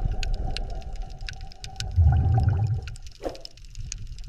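Wet squishing and sloshing of water and mud as a small plastic toy is rinsed and handled, with small clicks of plastic, loudest about two seconds in.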